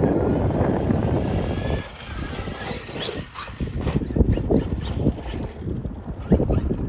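Losi DBXL-E 2.0 1/5-scale electric RC buggy running on dirt: a dense rush of noise for the first couple of seconds, then a faint rising motor whine and scattered crunches and knocks of tyres on dirt and stones.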